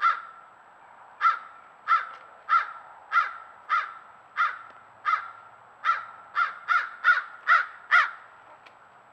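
A bird giving a long series of short, harsh calls about every half second. There is a pause of about a second early on, then the calls come faster and louder until they stop near the end.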